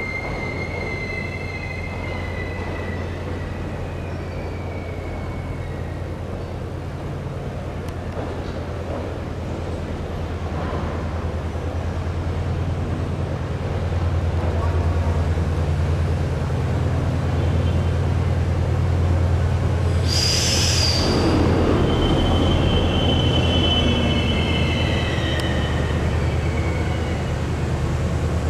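Passenger train running at speed, heard from inside the carriage: a steady low rumble of wheels on rail that grows louder about halfway through, with thin high wheel squeals near the start and again near the end, and a short hiss about two thirds of the way in.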